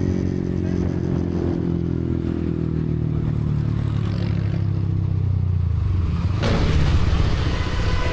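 Motor scooter engine running at a fairly steady speed while riding. A louder rush of noise joins about six and a half seconds in.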